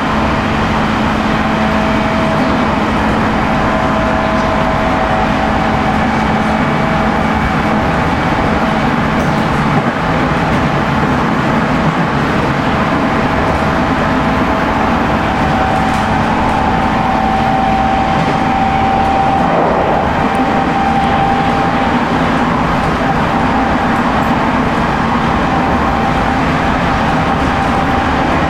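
Steady running sound of a 719 series 5000 subseries electric train: the MT61 traction motors and gears give a constant whine over wheel and rail noise as the train holds speed.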